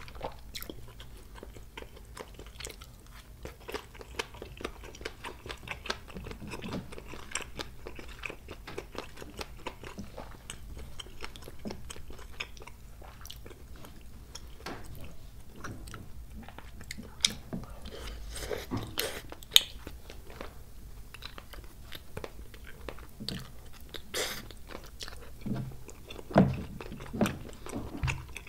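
Close-miked chewing and biting of spicy tteokbokki, chewy rice cakes and fish cakes in sauce, with wet mouth sounds and short sharp clicks throughout and a few louder bites in the second half.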